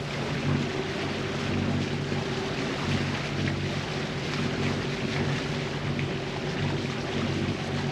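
A catamaran's motors running steadily while under way, a low even hum, with wind on the microphone and water noise over it.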